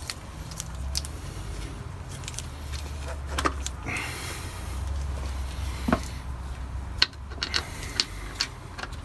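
Scattered light metallic clinks and clicks of hand tools and engine parts being handled, a few sharper ones in the second half, over a low steady rumble.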